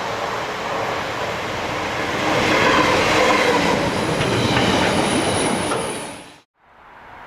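A train passing on the main line at speed, its wheels clattering on the rails, with a thin high squeal near the end. The sound cuts off suddenly about six seconds in, and a quieter sound follows.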